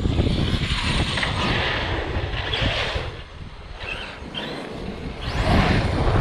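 Arrma Outcast electric RC truck driving on wet asphalt: its brushless motor whine rises and falls with the throttle and its tyres hiss. The whine dips about three seconds in and climbs again near the end, with wind rumbling on the microphone throughout.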